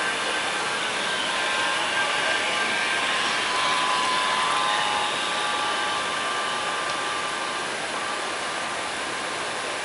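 Motorboat running under way: a steady rush of engine, wind and water with a faint high whine that shifts slightly in pitch around the middle.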